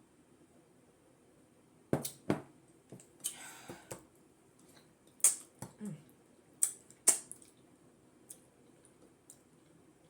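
Close-up eating sounds of fufu and peanut butter soup: irregular wet mouth smacks and sharp clicks, with a brief noisy stretch about three seconds in.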